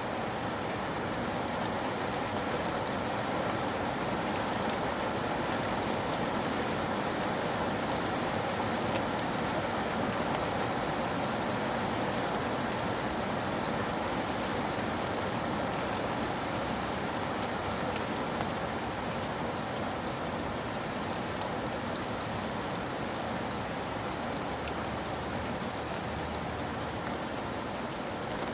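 Steady rain falling, with a continuous hiss and scattered individual drop ticks.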